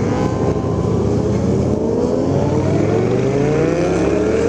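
Motorcycle engine accelerating, its pitch rising steadily, over a heavy rumble of wind and road noise.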